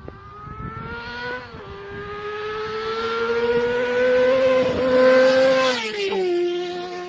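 A motor vehicle engine revving under acceleration. Its pitch climbs steadily, dips sharply about a second and a half in, climbs again, then drops near the end, loudest in the middle before it fades and cuts off.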